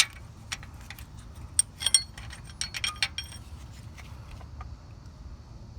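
Irregular metallic clicks and clinks of a 14 mm open-end wrench on a bolt, worked a little at a time in a tight spot. The clicks are thickest in the first three seconds or so and grow sparse after that.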